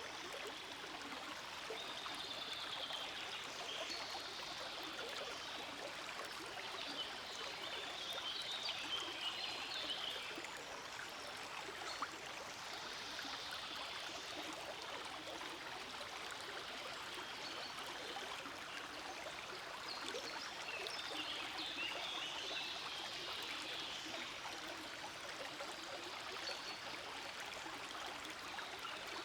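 Forest stream flowing steadily, a continuous babble of running water that swells a little twice.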